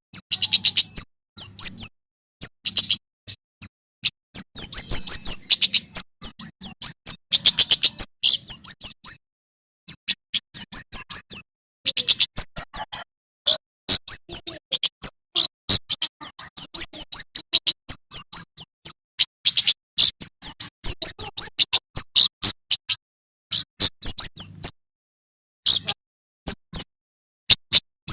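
Male Prenjak Keres (kemade) singing hard: rapid volleys of sharp, high chirps, each run lasting a second or two and broken by short pauses.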